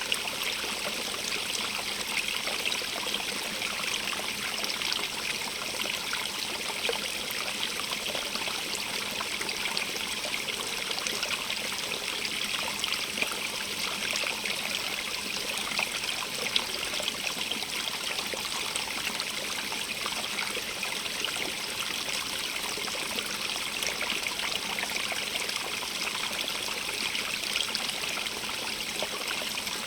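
A stream running steadily, its water trickling and splashing over stones in a continuous bright rush.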